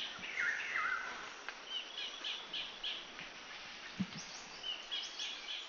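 Birds chirping: repeated short high chirps, with a couple of lower calls sliding downward about half a second to a second in, over a faint steady hiss. A brief low thump about four seconds in.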